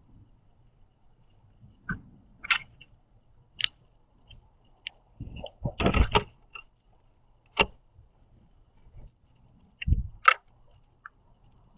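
Northern cardinal pecking at and cracking sunflower seeds on a plastic platform feeder tray: scattered sharp clicks and taps, with a louder cluster of scuffing taps about halfway through and a low thump near the end.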